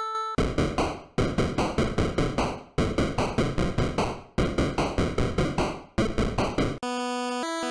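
Electronic retro-style music: a fast run of noisy drum-machine-like hits, about five a second, repeated in four phrases with short gaps between them, then a plain synthesizer melody of held notes near the end.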